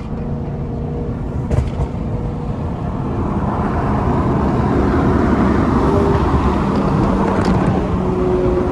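Car engine and exhaust noise, growing louder about three seconds in and then holding steady.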